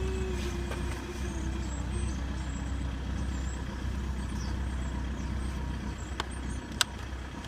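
BMW E90 320d diesel engine idling after a cold start, with a whine that the owner puts down to a pump; the whine slowly falls in pitch over the first few seconds and fades out. A single sharp click comes near the end.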